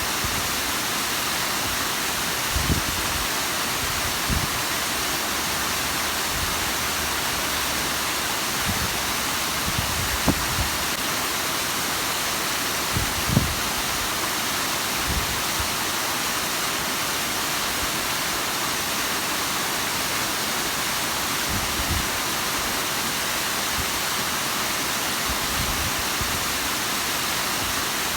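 Bigăr waterfall rushing steadily, an even hiss of falling water, with a few short low thumps scattered through it.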